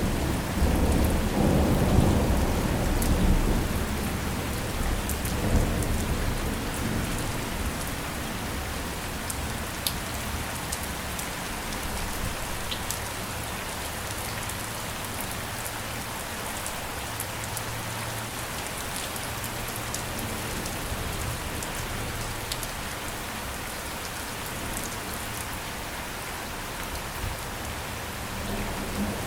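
Steady rain, an even hiss with scattered drop ticks, with a low rumble of thunder at the start that dies away over the first few seconds.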